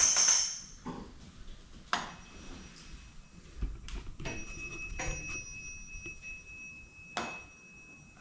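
A small bell rings with a steady high tone that fades slowly over the last few seconds, among scattered light knocks and clicks.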